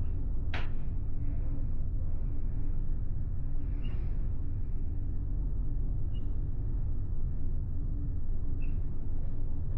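Steady low rumble of a ferry's engines and hull under way, heard inside a passenger cabin. A sharp click comes about half a second in, and a few faint high ticks follow later.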